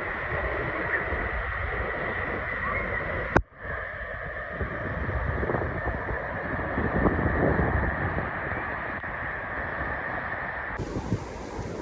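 Steady rush of wind and water noise with a faint steady whine, broken by a sharp click about three and a half seconds in. Near the end the sound changes abruptly.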